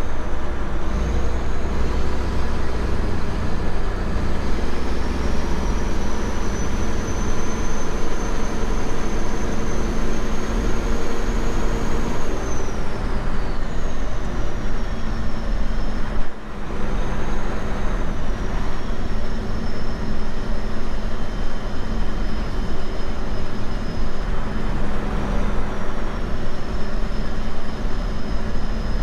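Semi truck running down the road: a steady low diesel engine drone with road noise, and a high whine that rises slowly, then falls away about halfway through. The sound dips briefly soon after.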